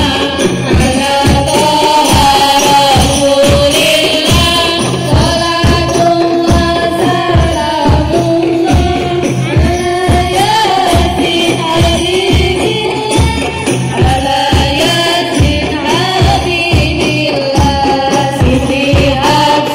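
Sholawat devotional singing: sung voices carry a wavering melody over a steady beat of hand-struck frame drums.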